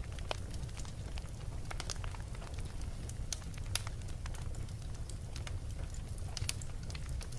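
Wood fire crackling in a fireplace: scattered sharp pops and snaps over a steady low rumble of the flames, with a few louder pops.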